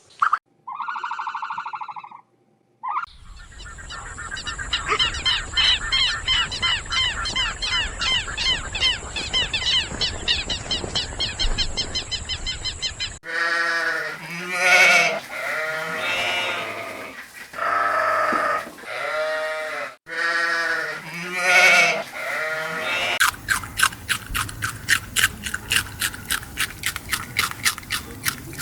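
A run of animal sounds: about ten seconds of fast chattering, then several loud bleat-like calls, each about a second long with a rich pitched tone, then rapid clicking.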